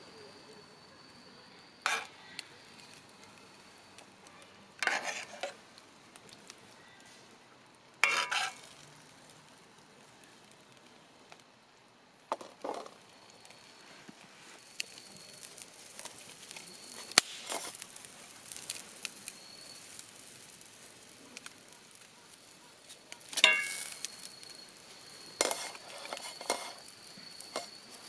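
Camp cooking: a metal utensil clinks against cookware every few seconds over a faint sizzle of food frying.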